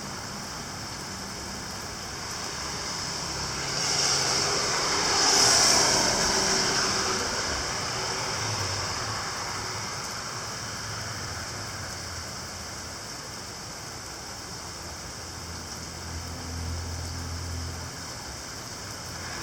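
Steady hiss of heavy rain falling. A vehicle passes on the wet road, its tyre hiss swelling from about four seconds in, loudest near five and a half seconds, then fading.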